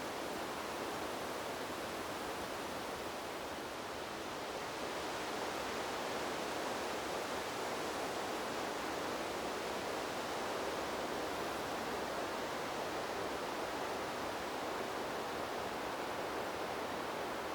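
Wind blowing through trees as a steady, even rushing noise, easing slightly about three seconds in and then swelling a little louder.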